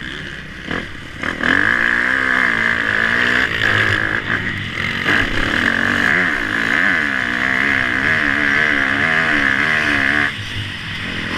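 Motocross dirt bike engine revving hard, its pitch rising and falling repeatedly as the rider works the throttle. It comes in loud about a second and a half in and drops away suddenly near the end.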